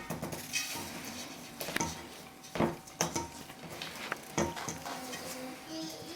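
A utensil stirring thick brownie batter by hand in a mixing bowl, with irregular clicks and knocks against the bowl.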